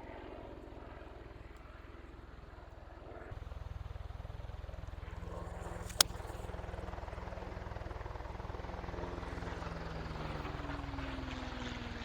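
A single sharp golf-club strike on the ball about halfway through, over the steady drone of an aircraft engine overhead that grows louder a few seconds in and slowly falls in pitch toward the end.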